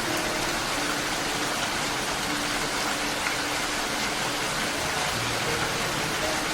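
Steady rain, an even hiss with no breaks. Under it, soft background music holds a few long, low notes.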